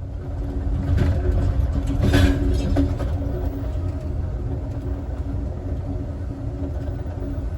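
Southwest Chief passenger train running, heard from its last car: a steady low rumble of wheels on rails with a faint hum, rising over the first second, and a brief louder clatter about two seconds in.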